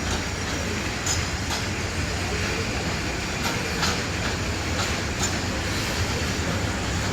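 Freight train wagons rolling past with a steady rumble of wheels on the rails, broken by sharp, unevenly spaced clacks as the wheels cross rail joints.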